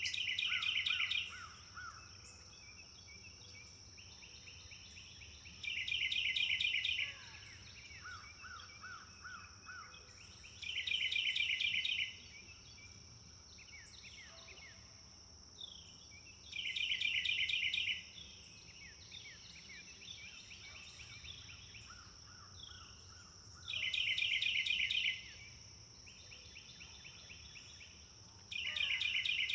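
Forest songbirds: one bird repeats a loud, rapid trilled phrase about every five to six seconds, six times, while other birds chirp and call more softly in between. A steady high-pitched drone runs underneath.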